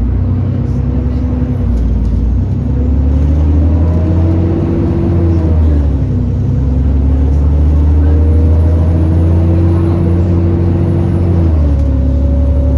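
Alexander Dennis Enviro400 E40D bus pulling away and accelerating. The engine note rises, drops sharply at a gear change about six seconds in, rises again and drops at a second change near the end, with a faint high whine on top.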